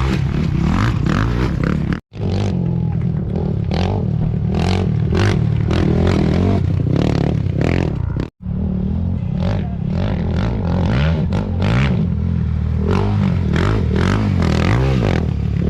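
Off-road race motorcycles passing on a dirt course: engines revving, with rattling and scraping. A heavy rumble runs under it, and the sound cuts out briefly twice.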